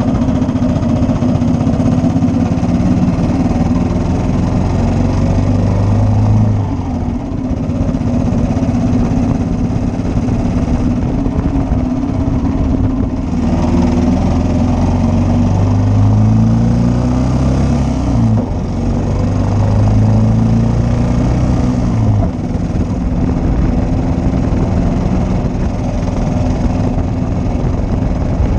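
1941 Matchless G3L's single-cylinder four-stroke engine running on the move. It rises in pitch several times as it accelerates, and each rise ends in a brief dip that fits a gear change.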